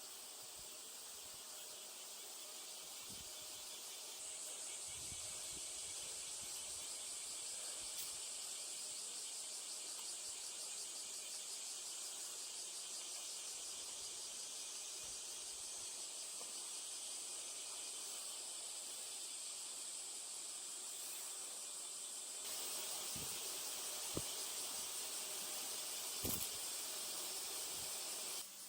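Steady high-pitched chorus of insects, with a few faint knocks near the end.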